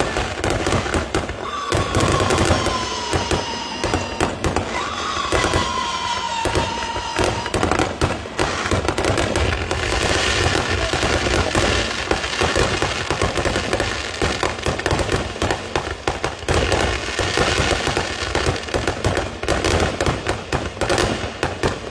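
Fireworks display going off: a steady run of bangs and crackling, with two whistling shells falling in pitch in the first several seconds and denser crackling later on.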